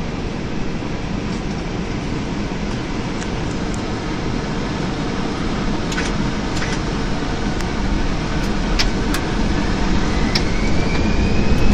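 Airbus A321 cockpit noise: a steady rumble, with a few sharp clicks around the middle. Near the end a thin whine rises in pitch as the noise grows louder, typical of the jet engines spooling up.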